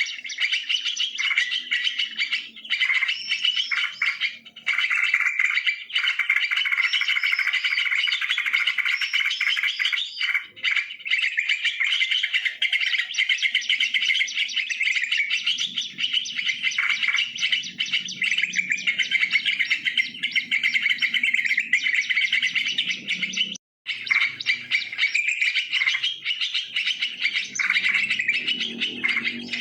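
Yellow-vented bulbuls (trucukan) chattering and chirping almost without pause, with busy overlapping calls. The calls break off for an instant about two-thirds of the way through.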